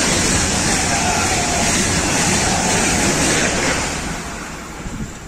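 ICE T high-speed electric train passing at speed, a loud steady rush of wheels on rail and air, which fades away from about four seconds in as the train draws off down the line.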